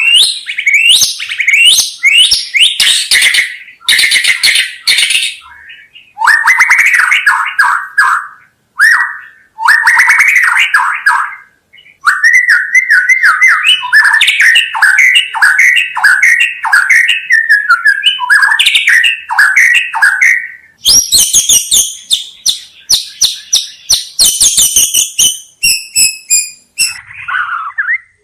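White-rumped shama (murai batu) singing: a long, loud, varied song of rapid whistled phrases, harsher buzzy phrases and fast chattering runs. Sharp clicking notes come in near the end.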